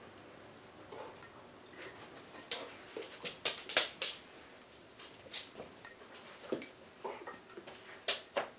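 Two dogs rummaging through a pile of tennis balls: irregular sharp clicks and taps, in a cluster about three to four seconds in and again near the end.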